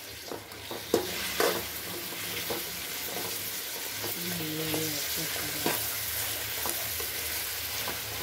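Chopped tomatoes and sliced onions sizzling in hot oil in a metal pan, stirred with a metal ladle that scrapes and knocks against the pan; the loudest knocks come about a second in.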